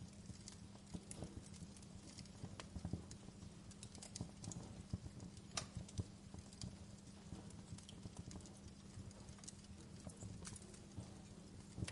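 Wood fire in a fireplace crackling: irregular small pops and snaps, a few sharper ones, over a low steady rumble.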